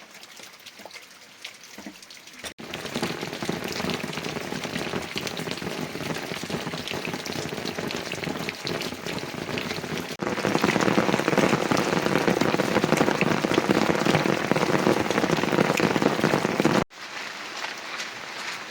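Heavy rain: a dense hiss of falling drops with many sharp patters. It is quieter at first, jumps suddenly louder about two and a half seconds in, grows louder again about ten seconds in, and falls suddenly back to a quieter level near the end.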